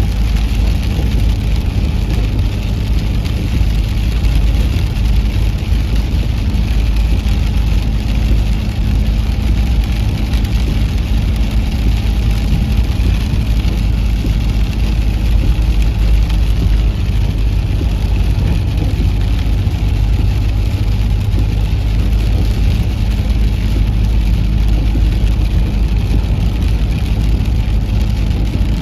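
A vehicle engine running steadily with an even, unchanging low drone.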